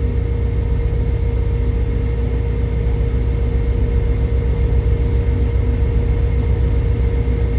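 Steady low drone inside a semi truck's cab on the highway: engine and road rumble, with a thin steady whine running over it.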